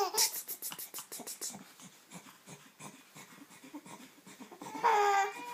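A baby panting in quick, rapid breaths, then breathing more softly. Near the end comes a short vocal coo.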